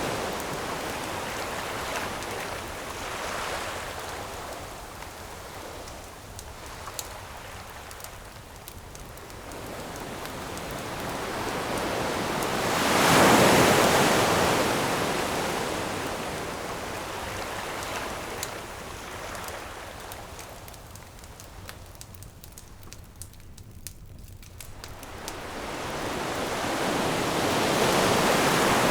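Ocean waves breaking on a shore: the surf swells to a crash about halfway through and again near the end, ebbing in between. Scattered small pops of a crackling wood campfire sound through the lulls.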